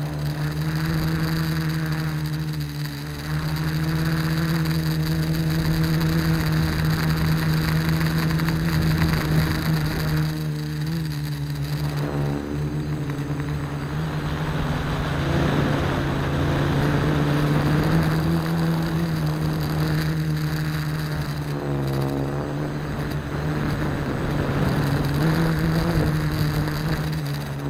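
AeroQuad quadcopter's electric motors and propellers running in a steady buzzing hum, the pitch swinging up and down again and again as the motor speeds change.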